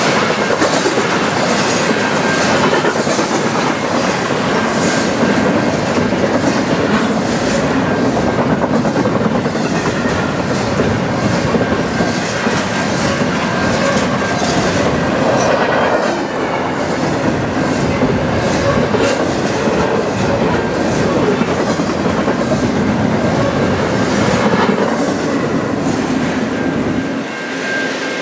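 Norfolk Southern double-stack intermodal freight train rolling past at speed: a loud, steady rush of steel wheels on rail with regular clickety-clack over the joints. Near the end the last cars go by and the sound drops off.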